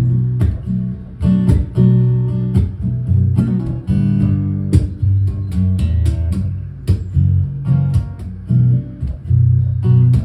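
Guitar playing solo, chords strummed and picked in a steady rhythm, as the instrumental introduction to a song.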